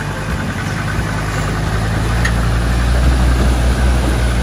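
Land Rover Defender 90's engine running at low revs as it drives through a shallow ford, with water splashing around its wheels. The engine grows louder about halfway through as the vehicle passes close.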